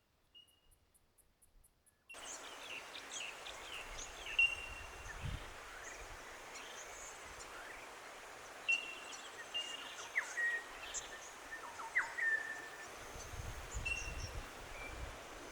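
Small birds chirping and whistling in short, scattered calls over a steady outdoor hiss that comes in abruptly about two seconds in; a few of the calls slide down in pitch.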